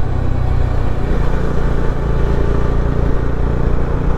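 Motorcycle engine running steadily while under way: a loud, even low drone.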